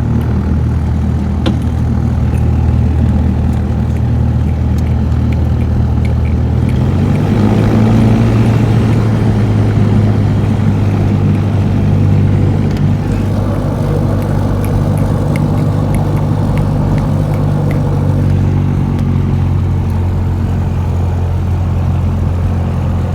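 Small plane's piston engine and propeller running steadily, heard from inside the cabin, as at idle or taxi power. About seven seconds in the engine note steps up in pitch and gets louder, then eases back a little around thirteen seconds.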